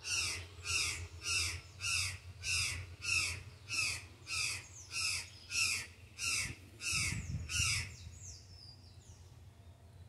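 A bird giving a long series of harsh calls, about two a second, stopping about eight seconds in.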